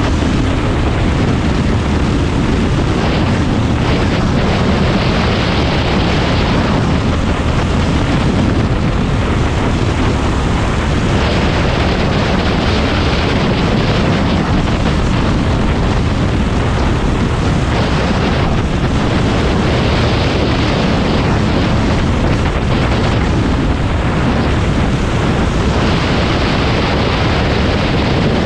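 Predator 390 single-cylinder kart engine running hard at racing speed, a continuous loud drone that rises and falls every few seconds as the throttle comes on and off.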